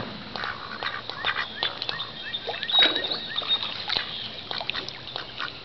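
Ducks calling near the water: a scatter of short quacks and chirps, one slightly louder call about three seconds in.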